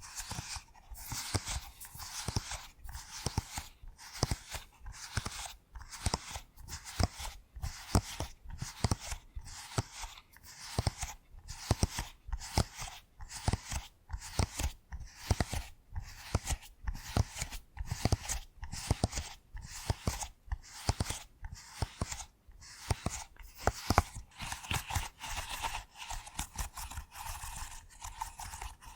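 A pop toy being pressed over and over in a steady rhythm, about one and a half crackly pops a second, each with a sharp click.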